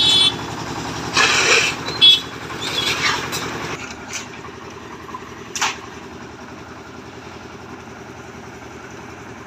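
An engine running steadily. It gets quieter about four seconds in. Several short, sharp noises sound over it in the first half, and one more comes later.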